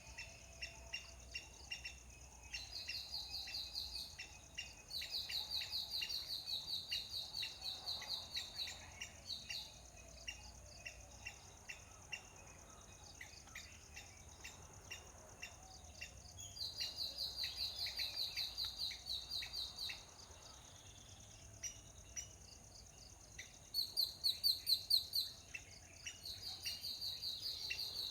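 Rapid, high-pitched chirping trills that come in bursts of one to four seconds, five times. The loudest burst is about two thirds of the way through. A steady thin high-pitched drone and fainter regular ticking run underneath.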